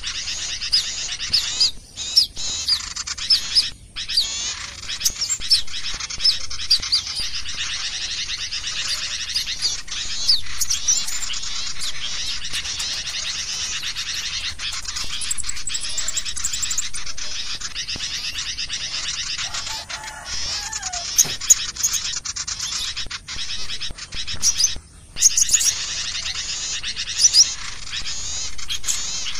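Dense, rapid chattering and chirping of many small birds, a bird-lure recording (suara pikat) of crecetan chatter calls played to draw small birds in. It runs at a steady level with a few brief breaks.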